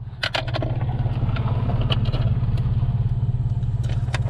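Pickup truck driving slowly on a rough dirt road, heard from inside the cab: a steady low engine and road drone with scattered clicks and rattles.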